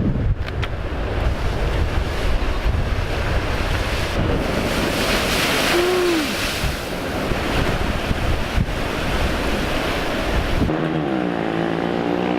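Sea waves washing onto a beach, with wind buffeting the microphone and a louder surge of surf around the middle. Near the end the sound cuts to a steady engine hum.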